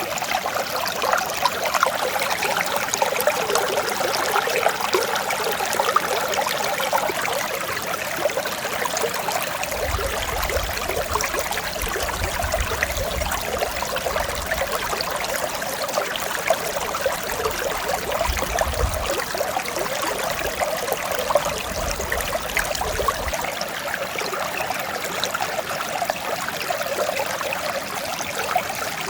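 Mountain stream flowing over rocks, a steady rushing and babbling of clear water that keeps the same level throughout.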